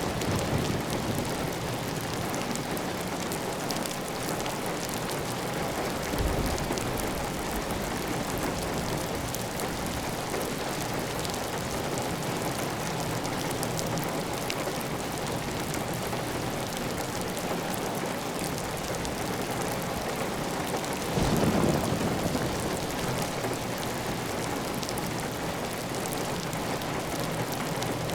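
Heavy, steady rain falling on a tiled roof, with water running off the roof edge. Two brief low swells rise out of it, a short one about six seconds in and a stronger one about three quarters of the way through.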